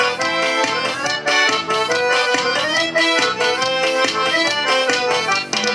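Live forró band playing an accordion-led instrumental passage with a steady percussion beat.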